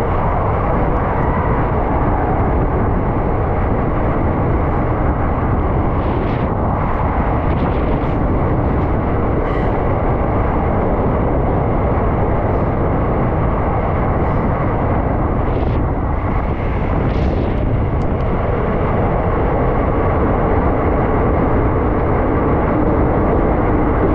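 Indian Railways passenger train running through a tunnel, heard from the open coach doorway: a steady rumble of wheels on rail, close and enclosed by the tunnel walls. A few brief high-pitched noises come over it around six and sixteen seconds in.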